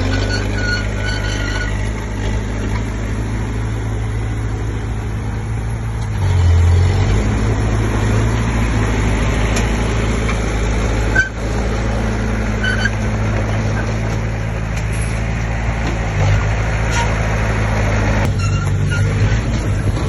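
Komatsu D20P bulldozer's diesel engine running steadily under work, with a louder surge about six seconds in.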